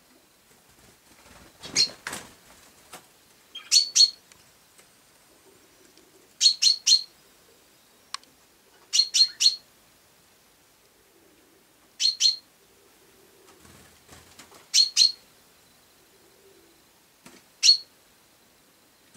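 Sparrow chirping: short, sharp chirps in quick pairs and triplets, repeated every two to three seconds. A brief rustle about two seconds in.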